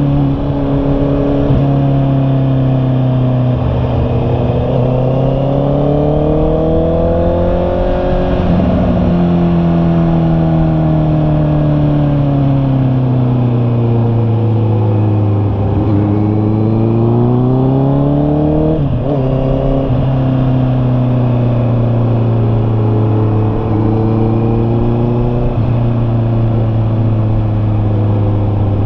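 Honda CB650R's inline-four engine running at speed, its pitch climbing and falling slowly as the bike accelerates and eases off, with a sudden break in pitch about two-thirds of the way through.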